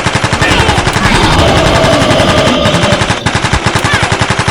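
Single-cylinder diesel engine of a walk-behind tractor running fast and steady: a rapid, even chugging of about a dozen beats a second.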